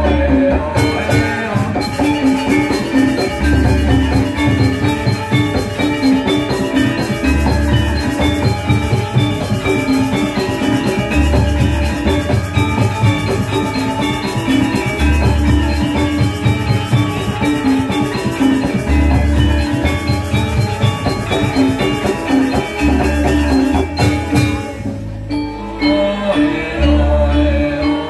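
Balinese gamelan playing: bronze metallophones ring in busy, dense patterns, with a deep gong-like stroke about every four seconds. The high ringing thins out briefly near the end and then comes back.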